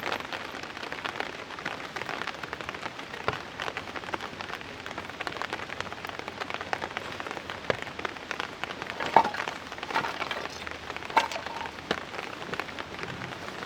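Steady rain, with many separate drops striking a surface. Two louder drop hits, each with a brief ring, come at about 9 and 11 seconds.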